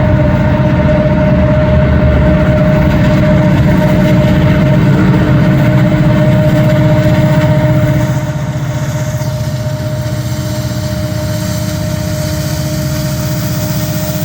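Diesel locomotives of a heavy coal train at full throttle in notch 8, led by an EMD SD70MAC with its two-stroke V16, passing close by: a loud, steady engine sound with a steady whine running through it. About eight seconds in it drops suddenly and the higher rumble of the train carries on.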